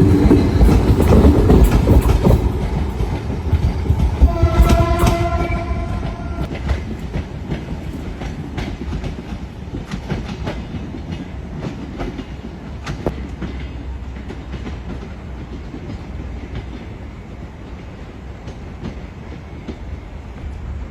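Passenger train pulling out of a station: a loud rumble of wheels and carriages, a horn sounding for about two seconds about five seconds in, then wheel clicks over rail joints as the train fades away.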